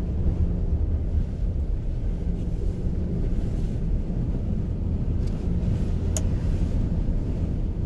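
Steady low rumble of a car driving on a snowy road, heard from inside the cabin, with one sharp click about six seconds in.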